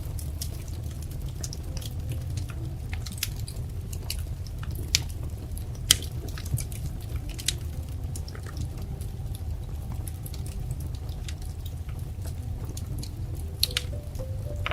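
Wood fire crackling in a fireplace: a steady low rumble with irregular sharp pops and snaps, the loudest about six seconds in.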